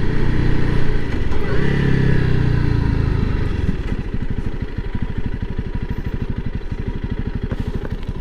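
Honda CRF300L Rally's single-cylinder four-stroke engine running under way, then its speed falls off. About three and a half seconds in it settles into a steady idle of rapid, even pulses as the bike comes to a stop.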